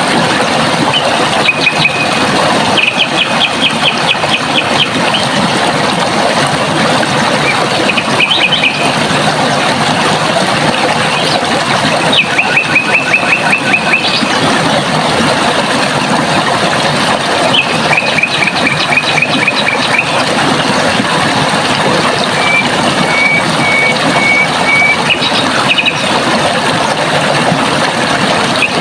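Running water rushing steadily, with a bird singing fast trills of rapidly repeated notes, about six phrases of one to two seconds each spread through the stretch.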